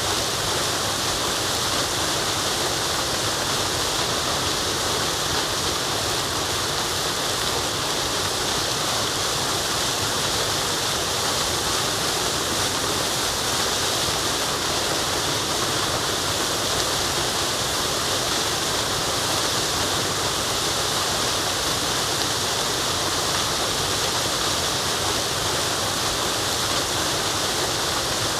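Forest waterfall rushing steadily: an even, hissing roar of falling water that holds the same level throughout.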